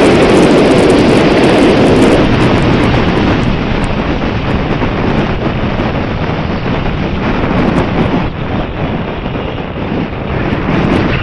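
Wind buffeting the microphone as a loud rushing noise, easing off a couple of seconds in.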